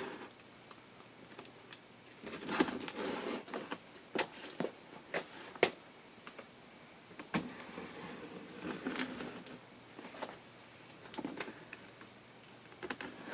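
A cardboard box being opened and its packing handled: irregular rustling and scraping, with scattered sharp clicks and knocks.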